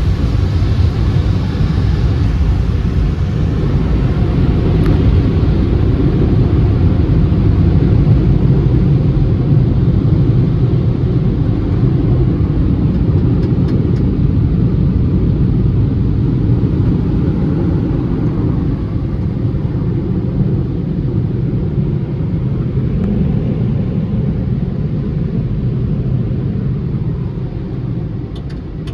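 Automatic car wash tunnel machinery running, heard from inside the car's cabin: a steady, loud rumble that eases off near the end.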